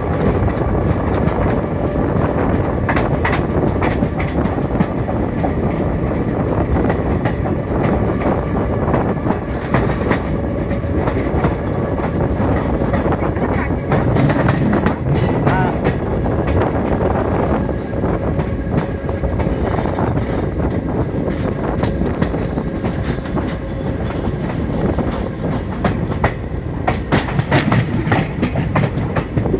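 Passenger train running, heard from aboard a carriage: a steady loud rumble with the repeated clatter of wheels over rail joints.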